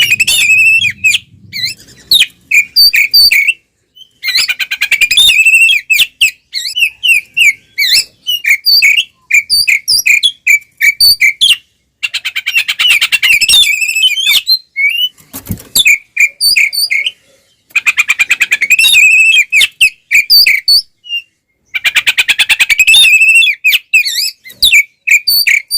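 Oriental magpie-robin (kacer) singing loudly in a fighting-style song: each phrase opens with a fast rattling trill and runs into a string of sharp chirps and whistles, repeating every four to six seconds with short pauses between.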